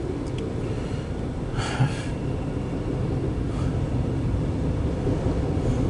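Freight train of empty autorack cars rolling past, a steady low rumble, with a short sharper noise a little under two seconds in.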